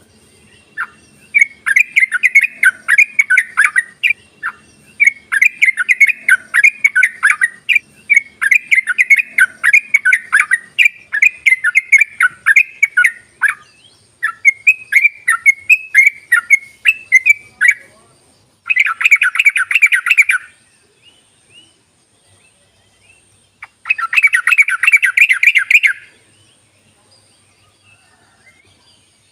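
Yellow-vented bulbul (trucukan) fast chattering song: quick runs of bubbling chirps for about seventeen seconds, then two dense bursts of rapid chatter, each about two seconds long.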